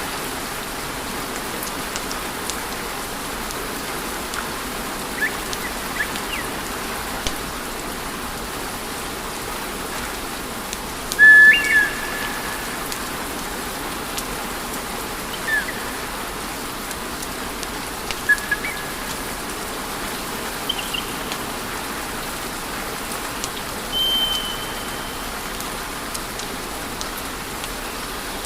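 Wood fire in a fireplace crackling and hissing steadily, with a few faint pops and several short high whistles, the loudest about eleven seconds in.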